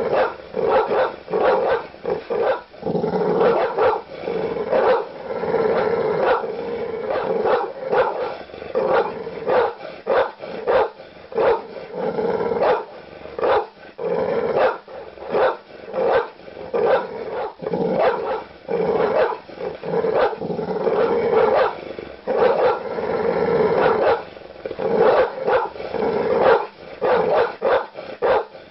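Large dogs barking aggressively: deep, loud barks in quick succession, about one to two a second, with hardly a pause.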